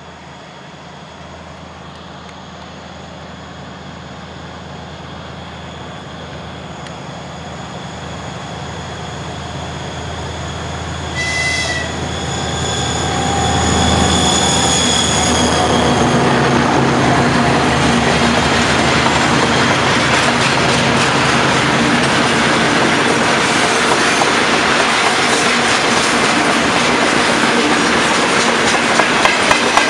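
Twin-section diesel freight locomotive approaching under load, its engines droning steadily louder, with a short high horn-like toot about 11 seconds in. It passes about halfway through, and loaded tank wagons then roll by with a continuous clatter of wheels clicking over rail joints.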